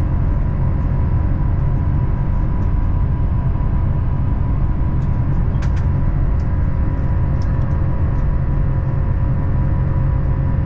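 Steady low rumble inside the cabin of an Airbus A350-1000 jet airliner, with a faint whine held under it and a few light clicks in the middle.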